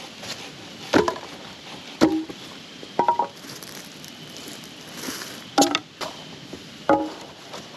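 Firewood being chopped with a hatchet or axe: about five sharp wooden strikes, roughly one a second with a pause in the middle, each with a short hollow ring.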